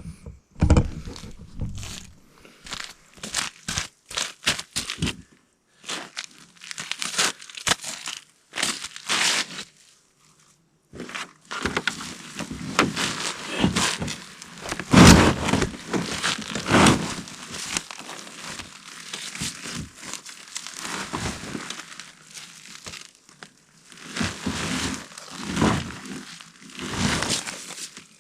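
Irregular crinkling and crunching rustles with scattered sharp knocks, the sound of things being handled and shifted about. There is a short lull about a third of the way in, and the loudest knocks come about halfway through.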